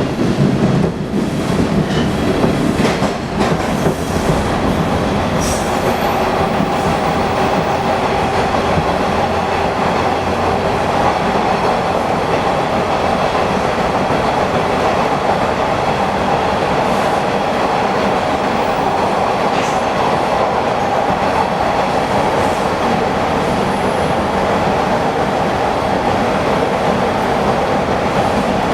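Bombardier T1 subway train running between stations, heard from inside the car: a steady rumble and rattle of wheels on track with a steady hum above it. A few sharp clicks come in the first few seconds.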